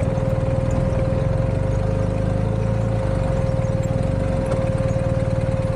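BMW R1250 GS boxer-twin motorcycle engine running steadily at low revs, with an even low pulse and a thin steady tone over it.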